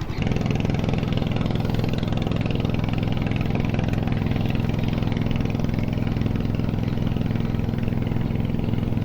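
Small boat engine running steadily, a little louder from about a quarter second in and then holding an even speed.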